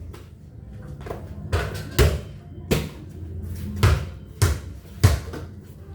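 A basketball bouncing and striking hard surfaces: about six hard thuds at uneven intervals, with a steady low hum underneath.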